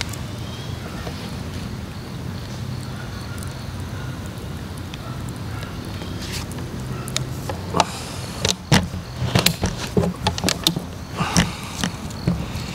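Wood fire in a mesh fire pit over a steady low background rumble, with a run of sharp, irregular crackles and pops starting a little past halfway.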